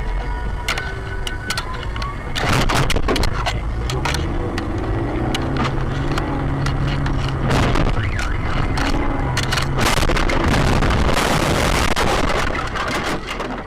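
A car on the road, with engine hum and road noise heard from inside a vehicle. There are scattered sharp knocks throughout, a steady engine note in the middle, and a louder noisy rush near the end.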